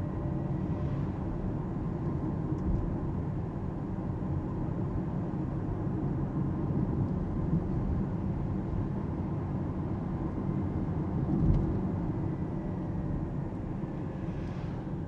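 Alpine A390 electric car driving, heard from the cabin: steady low road and tyre rumble, with a faint steady high tone over it.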